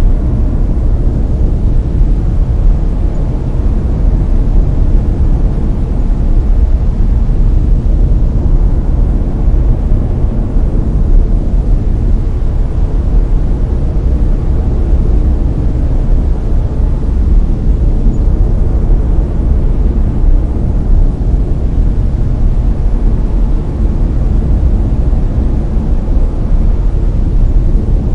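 Layered brown noise: a steady, deep hiss, strongest in the bass and thinning out toward the treble, with no change throughout.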